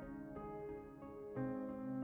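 Background music: soft piano-like keyboard notes, with a new chord struck about half a second in and again near one and a half seconds.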